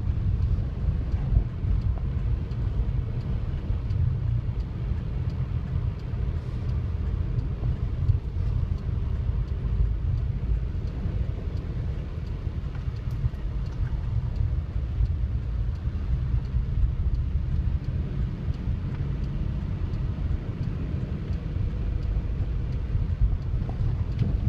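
Strong wind buffeting the microphone: a continuous low, uneven rumble that swells and dips with the gusts.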